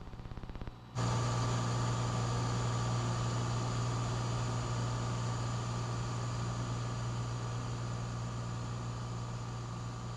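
Cessna 182's engine drone with cabin hiss, heard through the aircraft's intercom audio, cutting in suddenly about a second in and then holding steady. Just before it, a faint rapid fluttering.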